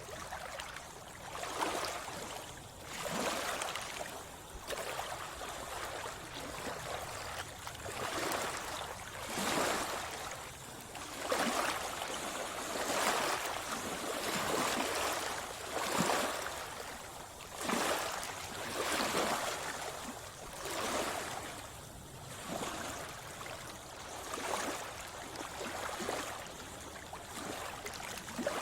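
Seawater splashing and sloshing in a regular rhythm, a surge about every one and a half to two seconds, as a swimmer strokes through the sea.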